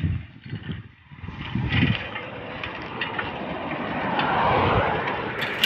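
Road traffic noise: a motor vehicle passes, its sound swelling and fading about four to five seconds in over a steady road noise.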